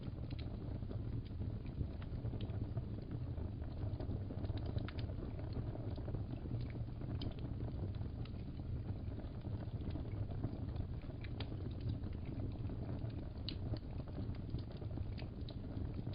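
Wood fire in a fireplace crackling: a steady low rumble with scattered sharp pops and crackles throughout.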